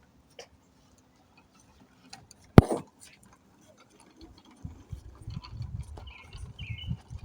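A single sharp knock about two and a half seconds in, then a low, irregular rumbling from about four and a half seconds on.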